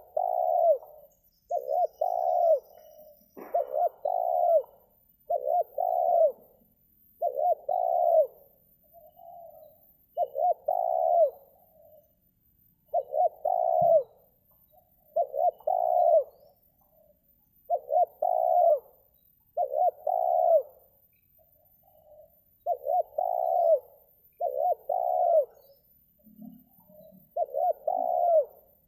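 Spotted dove (terkukur) cooing over and over in short phrases, about one every two seconds, with a faint knock now and then.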